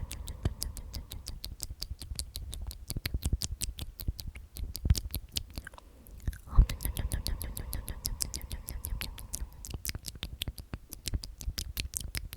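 Close-miked whispered "omnomnom" repeated over and over, heard mostly as a rapid stream of wet mouth clicks and smacks, with a faint hum on the "m" sounds. The loudest smacks come about five seconds in and again a little later.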